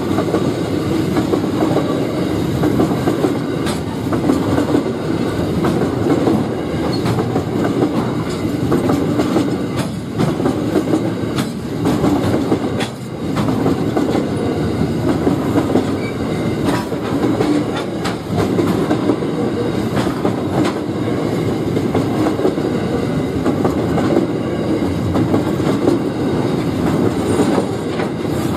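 Freight train wagons rolling past: a steady, loud rumble of steel wheels on the rails, with scattered clicks and knocks from the wheels crossing rail joints.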